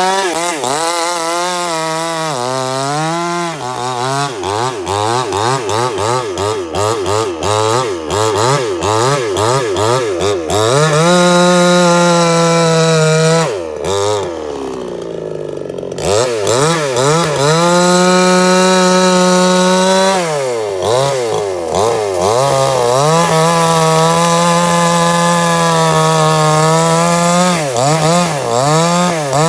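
Two-stroke chainsaw running hard. For the first ten seconds or so it revs up and down in quick surges, then holds steady at full speed for several seconds at a time. About halfway through its pitch slides down and it briefly drops toward idle before revving back up.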